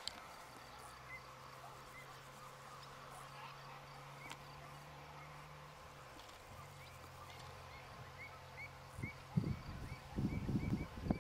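Bee-eaters calling faintly, short repeated chirps about once or twice a second that come faster towards the end, over a low steady hum. Near the end, loud rumbling bursts of noise on the microphone take over.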